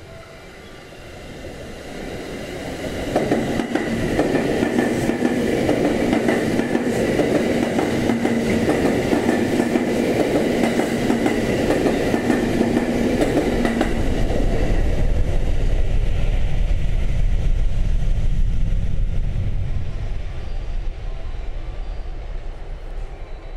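JR West 227 series electric multiple unit running through a station without stopping: the wheels rumble and clatter over the rail joints, swelling as the train comes close, staying loud while the cars sweep past, and fading near the end as it pulls away.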